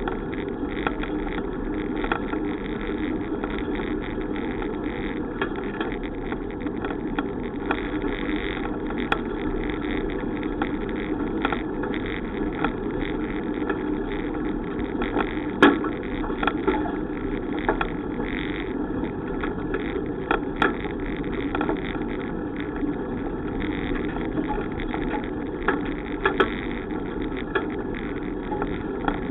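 Steady wind and road noise from a bicycle being ridden, with a few sharp knocks or rattles, the loudest about halfway through.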